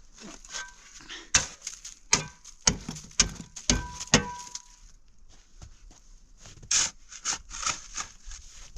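Wood being knocked and cracked: about six sharp strikes in quick succession, some with a brief ringing tone after them, followed by softer scattered rustling and crackling.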